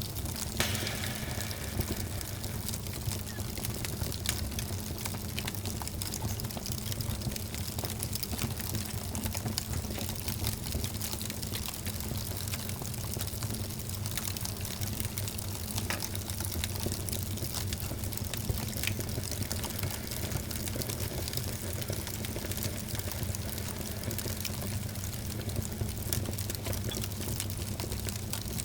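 Wood fire burning in a fireplace: a steady low rush of flames under frequent small crackles and pops, with a sharper pop about half a second in.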